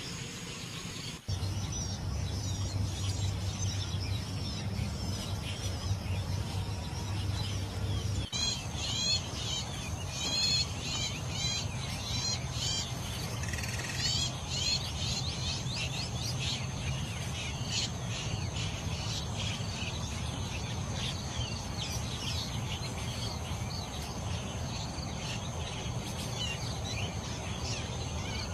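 Shrike song: rapid runs of short, repeated, scratchy high notes, over a steady high whine and a low background hum. The sound changes abruptly about a second in and again about eight seconds in, where one recording is spliced to the next.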